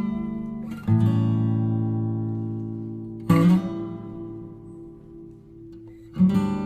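Background music: acoustic guitar chords strummed and left to ring out, with quicker strumming near the end.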